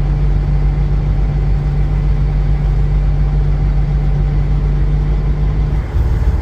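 Kenworth semi truck's diesel engine running steadily, its note dropping lower about six seconds in.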